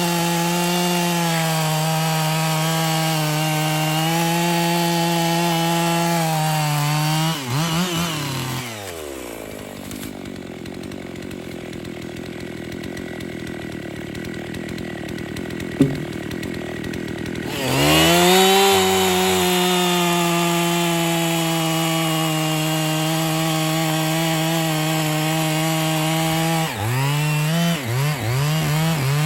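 Two-stroke chainsaw running at full throttle while bucking a log. About seven seconds in the revs fall away to a low idle, with one sharp knock during the idle. The saw then revs back up and cuts steadily again, its revs wavering near the end.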